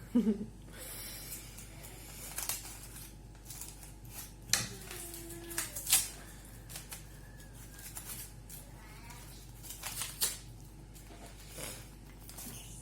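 Gift packaging being handled: irregular crinkling and rustling of paper and plastic wrapping, with scattered sharp crackles.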